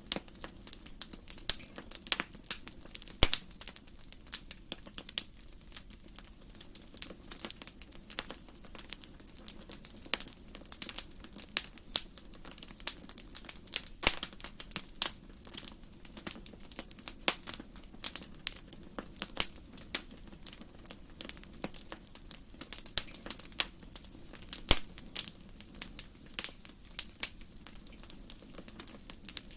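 Wood fire in a fireplace crackling: a constant run of irregular small snaps and clicks, with a few louder pops, over a low steady rush of the flames.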